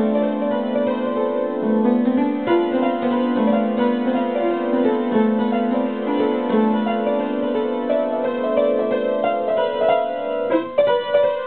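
Solo piano playing, steady overlapping notes with a short break in the sound about ten and a half seconds in.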